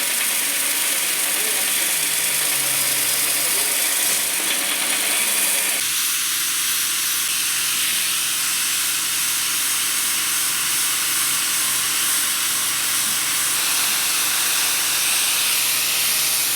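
Steady, loud hiss of a polishing machine working the mild steel base. The lower, rougher part of the sound drops away abruptly about six seconds in.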